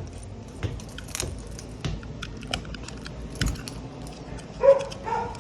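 Irregular small clicks and taps of a wall thermostat being handled while it is being reset, with a short pitched vocal sound near the end.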